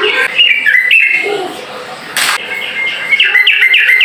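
Yellow-vented bulbul (trucukan) singing quick, chattering chirpy phrases, thickest in the last second. A short hiss-like burst cuts in a little past halfway.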